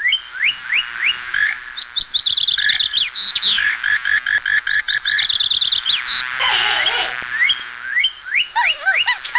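Birds calling: a series of short rising chirps, then a fast, even trill of repeated notes lasting a few seconds, and falling, arched calls near the end.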